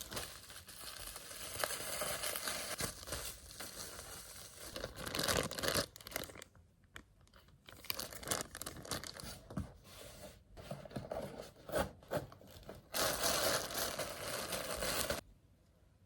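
Toy packaging being crinkled and torn open: dense crackling and tearing for the first several seconds, then scattered rustles and clicks, and another burst of crinkling near the end that stops abruptly.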